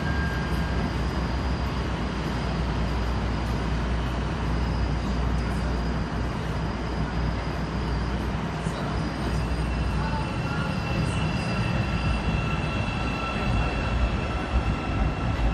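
CTA 5000-series rapid transit train running on the rails, a steady low rumble with thin wheel squeal tones that grow clearer about two thirds of the way in.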